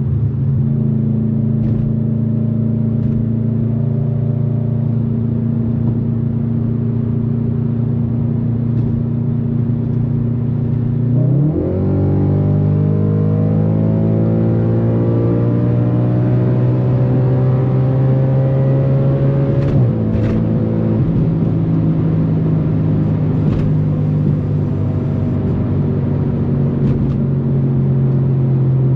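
Straight-piped Audi RS4 B8's 4.2 FSI V8 running at high speed. It holds steady revs, then changes gear about eleven seconds in and climbs steadily in revs for about eight seconds under acceleration. Its pitch drops with a shift near twenty seconds, then it runs on at steady revs.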